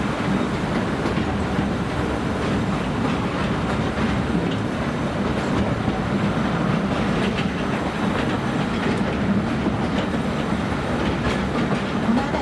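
Narrow-gauge forest railway train running along the track, heard from aboard. It makes a steady rumble with the clickety-clack of its wheels over the rails.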